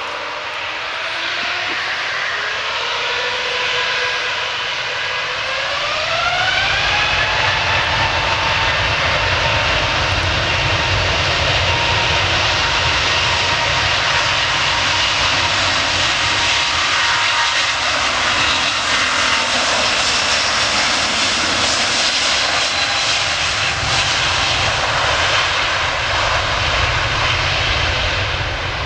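Airbus A350's Rolls-Royce Trent XWB turbofans spooling up for takeoff: a whine rises in pitch over the first several seconds, then holds steady at takeoff thrust over a loud jet rumble.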